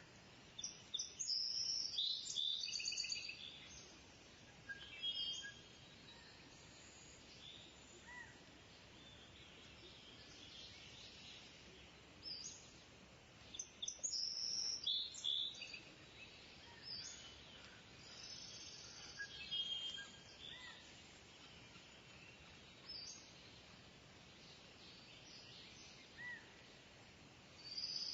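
Kingfisher calling: shrill, high-pitched calls in several bursts, the longest near the start and about halfway through, over a faint steady background hiss.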